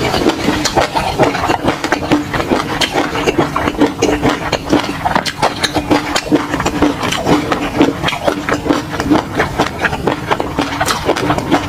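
Close-miked eating sounds: dense, irregular wet chewing and mouth clicks, several a second, with a steady low hum underneath.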